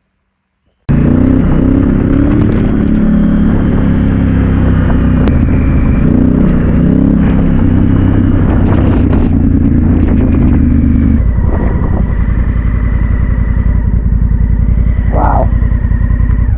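Honda Africa Twin's parallel-twin engine running while the motorcycle is ridden: a loud, steady low rumble that cuts in suddenly about a second in and changes tone about eleven seconds in.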